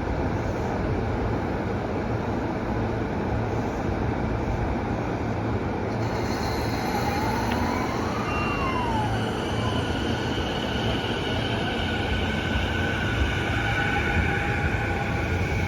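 Electric commuter train running into a station platform with a steady rumble of wheels on rail. About halfway through a whine rises and falls, and high squealing tones from wheels and brakes follow as it slows to arrive.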